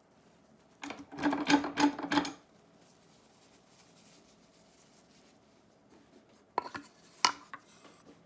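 About four quick abrasive strokes on a small steel edge iron, rubbing the rust off its surface, followed a few seconds later by a couple of sharp light clicks of metal being handled.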